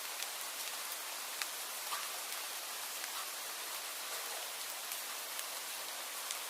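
Steady rain falling, an even hiss with a few sharper individual drops ticking down.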